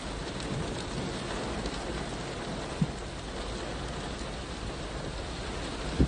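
Heavy rain falling steadily, with a single short knock about three seconds in.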